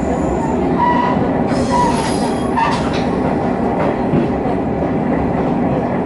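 Nishikigawa Railway diesel railcar running along the line, heard from inside the car: a steady rumble of engine and wheels on the rails, with a few brief high squeals in the first three seconds.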